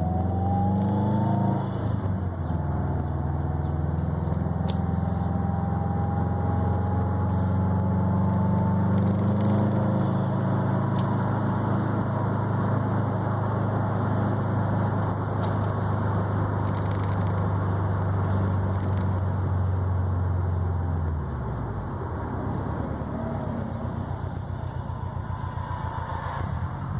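2020 Subaru WRX STI's turbocharged flat-four engine running through an ETS resonated mid pipe and quiet catback exhaust while cruising: a steady low drone with a thin rising whine near the start. About three quarters of the way through it drops lower and quieter, then begins to climb again near the end.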